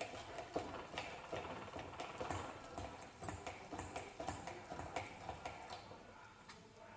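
Irregular clicks and light knocks from handling a manual meat grinder and its parts, thinning out and getting quieter near the end.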